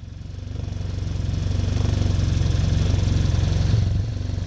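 Four-stroke engine of a new 2019 Arctic Cat Norseman 3000 snowmobile running steadily with a low, even note, fading in over the first second.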